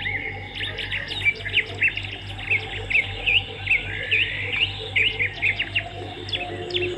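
Swiftlets twittering: a dense stream of short, rapid chirps, many overlapping, over a steady low electrical hum.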